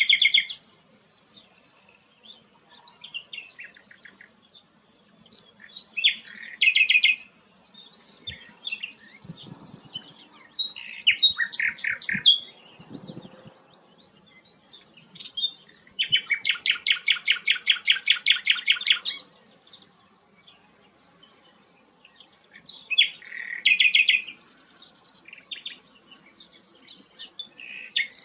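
Sikatan londo flycatcher singing in short phrases of quick, high chirping notes separated by pauses, with one longer run of rapidly repeated notes about two thirds of the way through.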